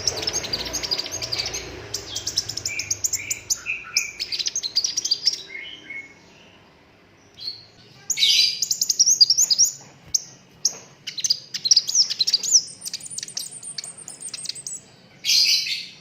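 Sunbird song: fast, high twittering trills and rapid strings of sharp notes, in two long runs with a short pause in the middle and a brief dense burst near the end.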